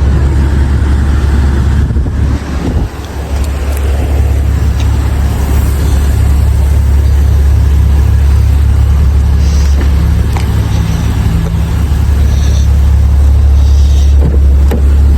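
2022 Maserati Levante Modena idling, a steady low hum heard inside the cabin, dipping briefly about three seconds in.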